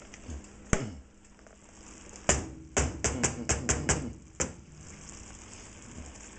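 Kitchen clatter at the stove: a single sharp click about a second in, then midway a quick run of about seven taps, a few a second, and one more tap after it.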